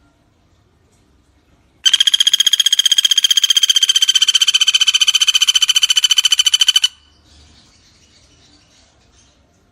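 Pelatuk bawang woodpecker giving one long, very rapid trilling rattle call. It is steady in pitch, lasts about five seconds and starts about two seconds in, with faint insect chirring around it.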